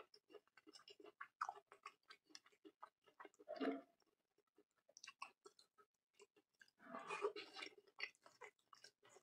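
Close-up chewing and lip-smacking of a person eating a piece of curried meat by hand, biting meat from it, with many small wet clicks and two louder, longer bursts of chewing, one about a third of the way in and one about three quarters in.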